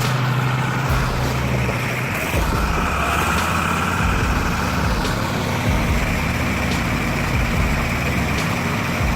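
V8 diesel engine of a classic Scania 143 timber truck running: a steady low drone with a faint higher whine over it.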